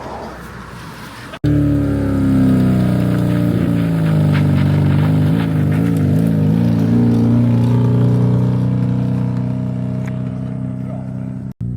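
Car engine running at a steady drone with small wobbles in pitch. It cuts in abruptly about a second and a half in and breaks off just before the end.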